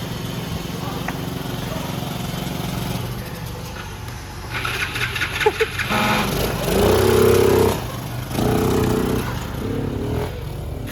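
Small gasoline engine of an engine-swapped Power Wheels ride-on running steadily with a low, rapidly pulsing note. About halfway through, louder pitched sounds come in over it for several seconds.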